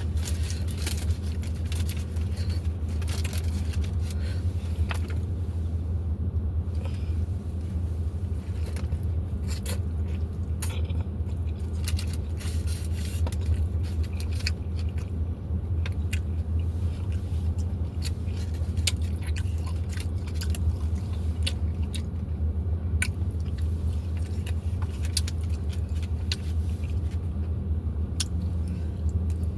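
Eating tacos close to the microphone: chewing and biting, with many short clicks and crunches over a steady low hum.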